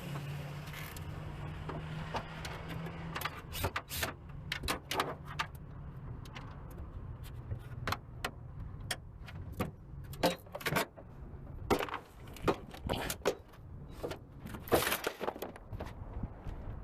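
Irregular clicks, clinks and light knocks of hand tools and metal and plastic car interior parts being handled during disassembly, over a low hum in the first few seconds.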